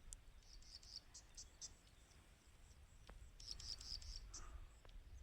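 Faint, high-pitched chirping in two short bursts, about half a second in and again past three seconds, over a low rumble.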